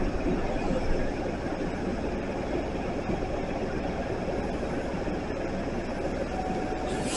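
Meitetsu electric train, a 9100 series and 3500 series set, pulling into the station platform: a steady low rumble of wheels and running gear. A louder hiss comes in near the end.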